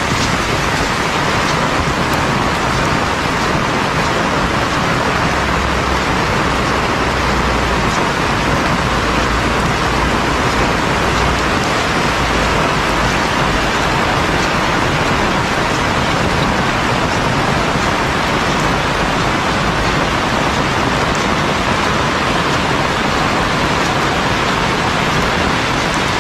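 Heavy rain falling steadily, an even hiss with no breaks, and a low rumble underneath from about five seconds in that lasts several seconds.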